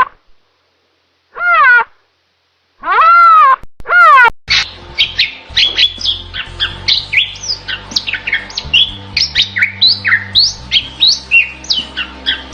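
Birds calling: first three loud, drawn-out cries that rise and fall in pitch, then, from about four seconds in, a busy run of quick chirps and squawks over a low steady hum.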